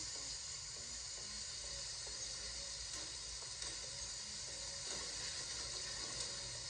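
A steady hiss with a low rumble underneath and no distinct events.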